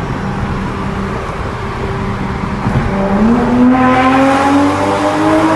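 Straight-piped 2020 Toyota Supra exhaust in a tunnel: the engine note holds steady, then about three seconds in it accelerates, the pitch climbing and the sound getting louder.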